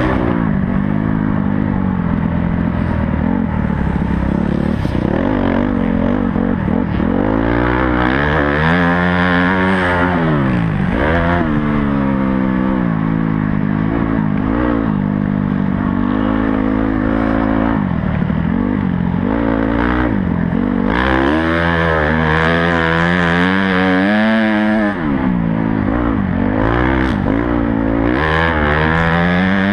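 Honda CRF250 four-stroke motocross bike engine heard on board, revving up and dropping back again and again as the rider accelerates out of turns and over jumps and shuts off into them.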